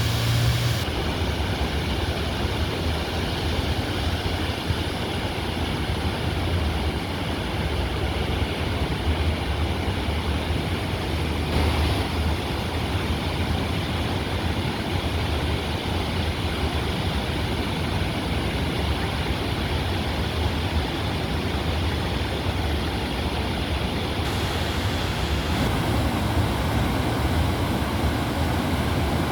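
Floodwater in a swollen river rushing past, a steady loud noise of churning water.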